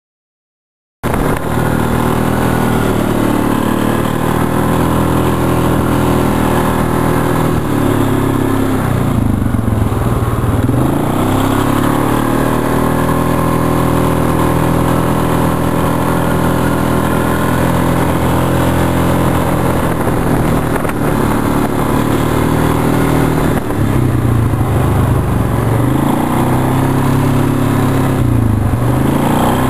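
A vehicle engine running steadily, cutting in suddenly about a second in. Its pitch falls and rises a few times as it slows and speeds up.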